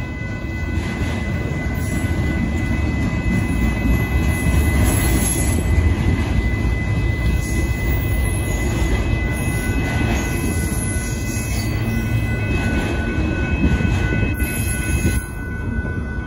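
Slow-moving Union Pacific freight train of autorack cars rolling through a grade crossing: a steady low rumble of wheels and cars, with a steady high-pitched tone running over it.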